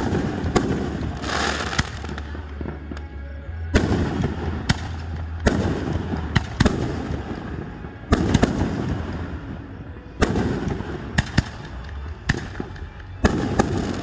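Aerial fireworks bursting overhead: a string of sharp booms every second or two, each trailing off in a rumbling echo, with smaller crackling pops between them.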